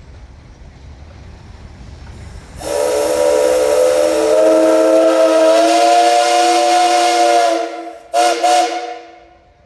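Steam whistle on a 1922 Nichols & Shepard steam traction engine blowing one long, loud blast of several tones at once, the pitch rising slightly partway through. Two short toots follow near the end.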